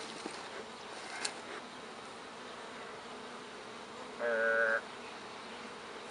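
Honey bees buzzing steadily around an opened hive. There is a faint sharp click about a second in and a brief pitched hum about four seconds in.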